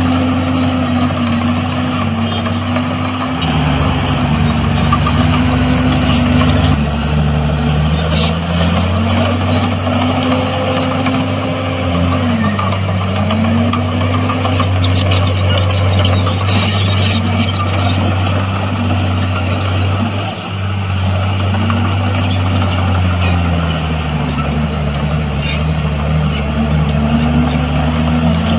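Heavy earthmoving machine's diesel engine running under load, its pitch dipping and recovering again and again as the load and throttle change.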